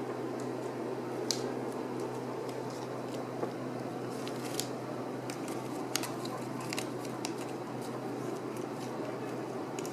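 Ragdoll kittens playing: scattered small sharp clicks and scratches over a steady low hum.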